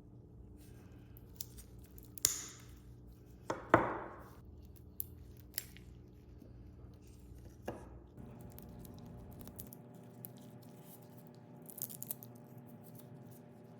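Workshop handling of parts and tools on a bench: a string of sharp knocks and clinks at uneven intervals. The loudest comes about four seconds in and rings briefly.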